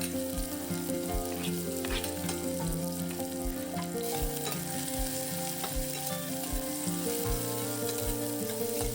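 Masala paste of ginger, garlic, tomato and green chili sizzling as it fries in a pan, with a few clicks of the spoon against the pan as it is stirred. Soft background music with a slow, steady beat plays throughout.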